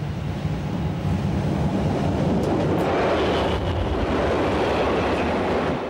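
A red metre-gauge electric railcar approaching and rolling directly over the track, its wheels rumbling on the rails. The rumble grows louder over the first two seconds, with a few sharp clicks in the middle, then stops suddenly near the end.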